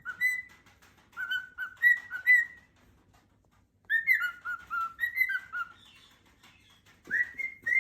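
Pet parrot whistling in three bursts of short, clear notes that step up and down in pitch, with pauses of about a second between the bursts.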